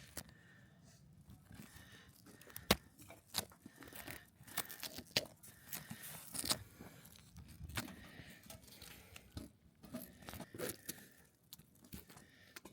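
Irregular crunches, scrapes and knocks, several sharp clicks among them, of camping gear being handled and packed up in snow.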